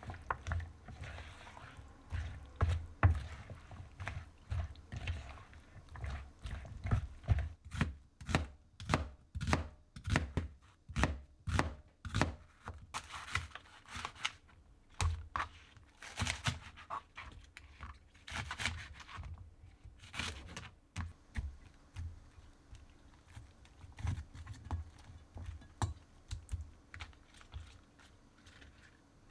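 Knife chopping on a cutting board: a long run of knocks, steadiest at about two a second partway through, with a few brief scrapes.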